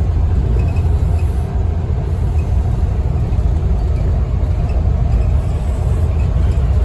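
A Scania N230UD OmniCity double-decker bus heard from inside while on the move: its five-cylinder diesel engine and road noise make a steady low rumble.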